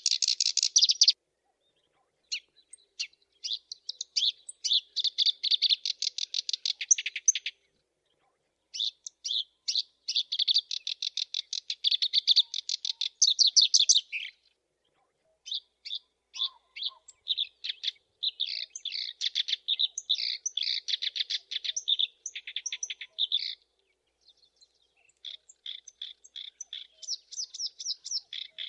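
Black-browed reed warbler singing: long runs of fast, high chattering notes, about four phrases broken by pauses of a second or so.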